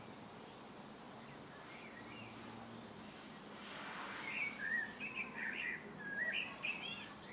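A small songbird twittering: a quick run of short, rising and falling chirps in the second half, over faint steady outdoor background noise.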